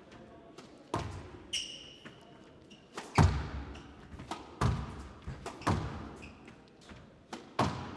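Squash rally: the ball cracking off rackets and thudding into the court walls every second or so in a reverberant glass-walled court. There are short high squeaks of court shoes on the floor.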